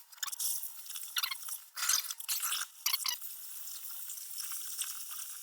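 Crackling, sizzling hot work on a steel backhoe bucket, torch cutting or welding, with louder crackly spells about 1, 2 and 3 seconds in.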